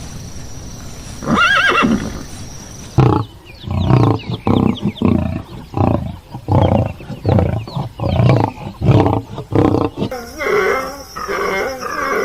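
A large animal giving a short pitched call, then a run of about a dozen low, loud calls roughly two a second. Near the end a different animal sound takes over, with quick chattering over a steady high tone.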